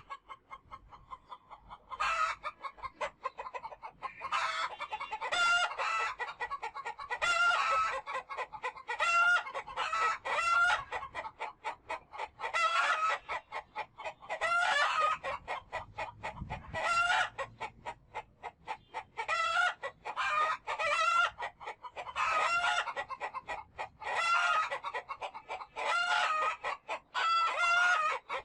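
Chickens clucking and calling, a long run of short repeated calls one after another with brief pauses between them.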